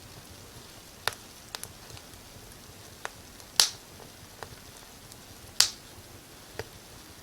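Wood fire crackling: irregular sharp pops, about seven, the loudest two a little past halfway, over a soft steady hiss.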